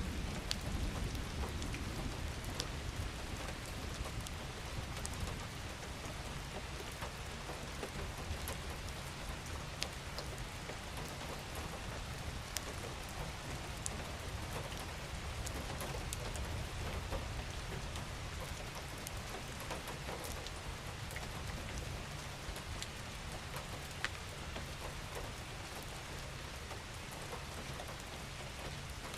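Steady rain falling on a surface, an even hiss with individual drops ticking here and there and a low rumble underneath.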